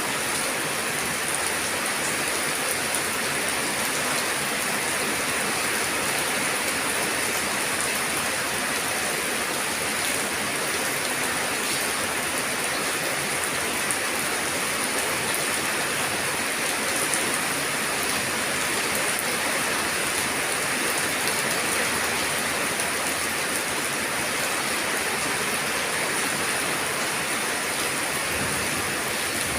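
Steady rain falling, an even hiss with a dense scatter of small drop ticks that does not change.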